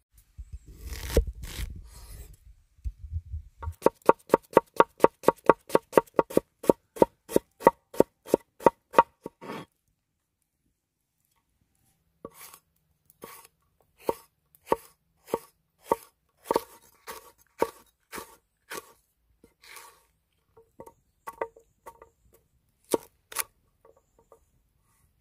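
Knife chopping on a wooden cutting board: a fast, even run of about five cuts a second, each knock ringing with the board's tone, then a pause and slower, uneven cuts.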